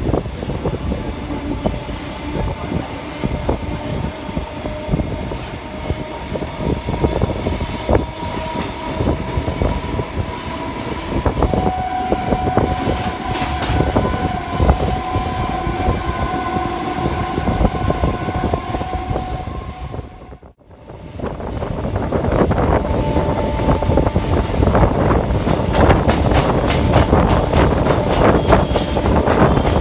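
Suburban electric local train running on the rails: a dense clatter of wheels and carriages with a steady whine that rises slightly in pitch. About two-thirds of the way through the sound cuts out for a moment, then comes back louder and rougher.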